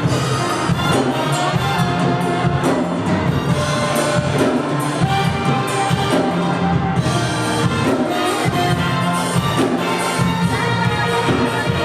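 Live church worship band playing a song with a steady beat.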